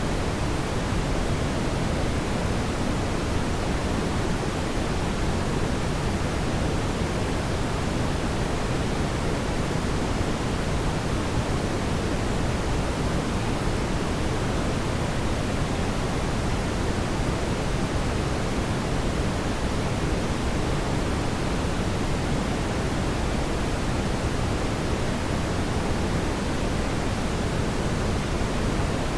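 A steady, unchanging rushing noise, fullest in the low end and thinning toward the top, with no crackles or pops.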